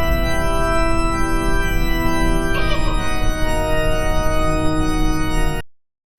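A short musical sting of two held organ-like chords. The first chord holds, a new chord comes in about two and a half seconds in, and the sound fades out just before the end.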